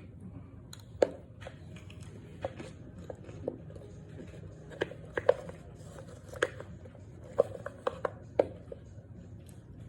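A person biting and chewing lumps of starch, giving irregular sharp crunches spaced half a second to a second apart.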